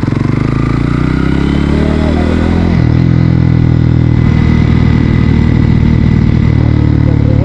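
Bajaj Pulsar NS160's single-cylinder engine accelerating, its pitch rising for nearly three seconds. It then changes abruptly, as at a gear shift, and runs steadily.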